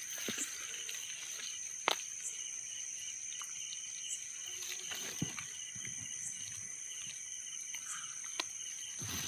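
Insects in forest undergrowth: a steady high-pitched whine with a faint, rapidly pulsing chirp beneath it, broken by a few sharp clicks.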